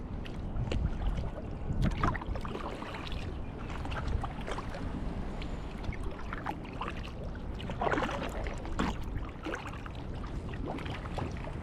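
Kayak paddle blades dipping into lake water, with irregular splashes and trickling drips.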